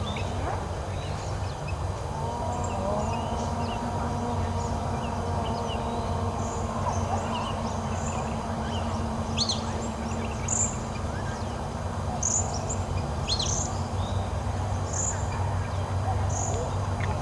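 Birds chirping in short scattered calls over a steady low rumble, with a held droning tone for several seconds early on.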